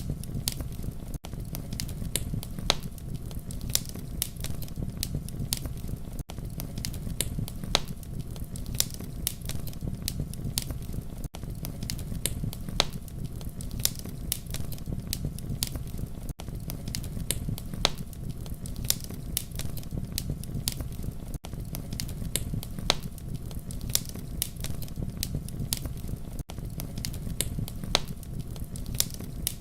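Wood fire crackling: a steady low rumble of flames with frequent sharp pops and snaps, and a brief dropout about every five seconds.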